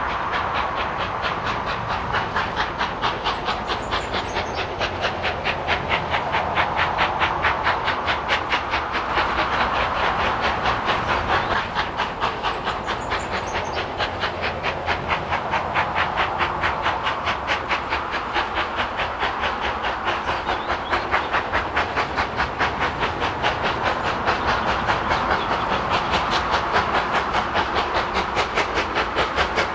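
Steam locomotive working steadily under way, its exhaust beating in a fast, even rhythm of about four to five chuffs a second over a steady hiss of steam.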